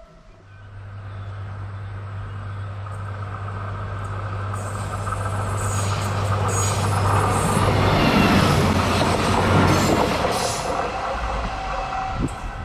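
Polregio SA133 diesel railcar approaching and running past: a steady low engine drone with wheel and rail noise that grows louder, peaking about eight to ten seconds in, with brief high wheel squeals along the way.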